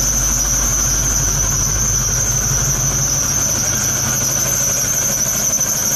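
Modern GM LS V8 idling steadily through a new dual exhaust with Flowmaster mufflers. A constant high-pitched whine sits over the low exhaust note throughout.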